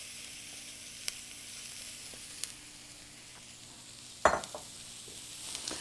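Diced bell peppers and mushrooms sizzling with onions in a hot oiled skillet, a steady frying hiss. A few light clicks and one sharper knock about four seconds in.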